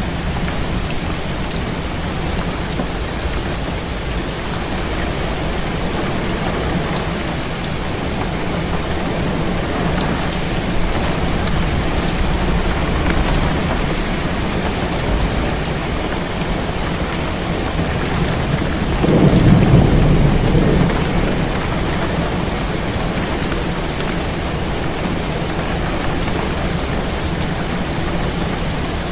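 Heavy rain falling steadily on a window, with one low rumble of thunder swelling up about two-thirds of the way in.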